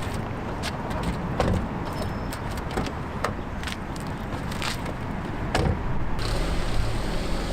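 Steady car noise with a scattered run of sharp clicks and jangles, like keys and small handling sounds, and music coming in about six seconds in.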